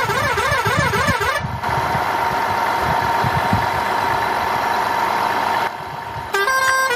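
An electronic wailing siren warbles up and down for about the first second and a half. It gives way to a steady engine-like hum with low thumps, and near the end a tune of beeping notes begins.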